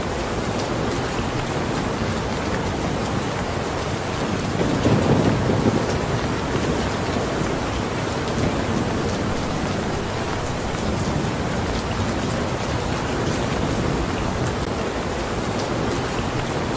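Steady heavy rain falling, an even hiss and patter, with a brief low rumble about five seconds in.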